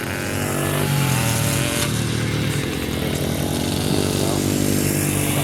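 Small dirt bike engines revving as the kids ride the track, their pitch rising and falling with the throttle.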